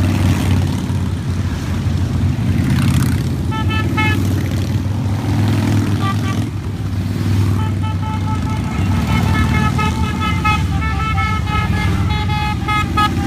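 A steady stream of motorcycles passing, their engines making a loud, continuous low rumble. Horns beep over it in short flat tones, once about three and a half seconds in and then repeatedly through the second half.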